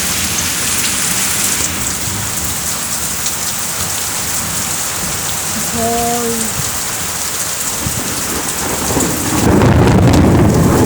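Heavy rain pouring steadily, with a brief tone about halfway through and a deeper rumble swelling up near the end.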